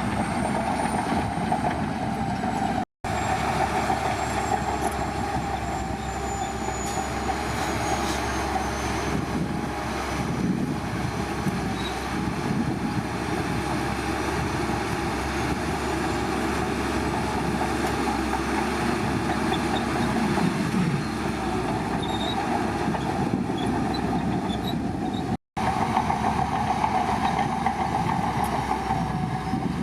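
Shantui crawler bulldozer working, its diesel engine running steadily with continuous machine and track noise; the sound drops out briefly twice.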